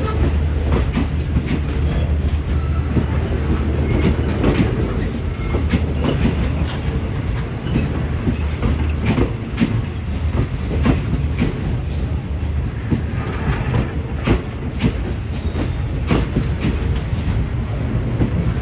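Passenger train moving along the station track, its steel wheels clicking unevenly over rail joints. A low engine rumble is strong at first and fades after about six seconds.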